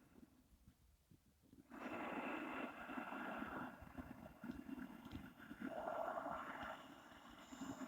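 A person's slow, audible breathing, long drawn breaths separated by pauses, in Taoist 'fire' abdominal breathing.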